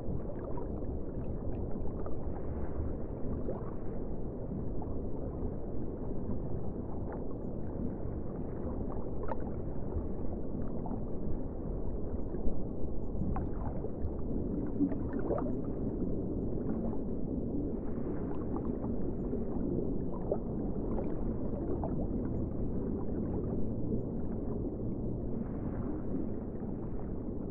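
Muffled ocean water sound: a steady low rush with scattered faint gurgles.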